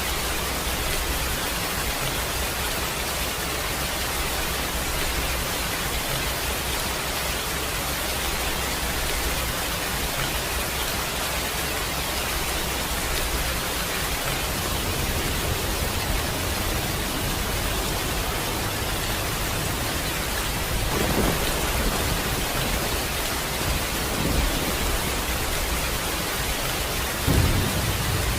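Steady hiss of heavy rain, with a low thunder rumble building from about halfway. Three short rolls of thunder come in the last third, the loudest near the end.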